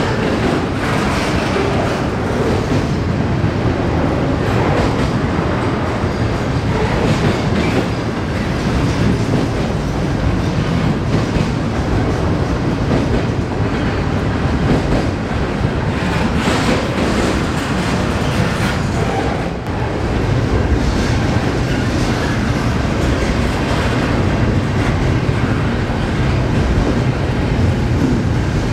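CN freight transfer train's cars rolling past at steady speed, a constant rumble with wheels clicking over the rail joints.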